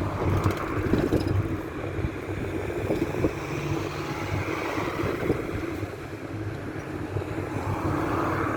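Cabin noise of an old Ford route minibus under way: steady engine and road rumble with frequent small knocks and rattles. A whine rises near the end.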